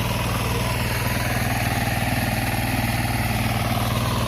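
A small engine running steadily at idle: an even, low, rapidly pulsing drone.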